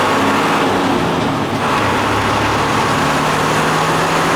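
Motor vehicle engine running steadily with road and traffic noise, a continuous low hum under a broad rushing noise.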